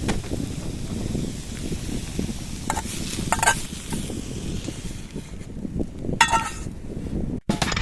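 Food sizzling in a pan over a campfire, with a few sharp metallic clinks of a utensil about three, three and a half and six seconds in.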